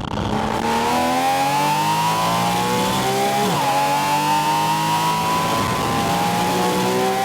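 Porsche 718 Spyder RS's naturally aspirated flat-six, heard at its air intake, accelerating hard with the revs climbing. There is a quick upshift about halfway through, and then the revs climb again.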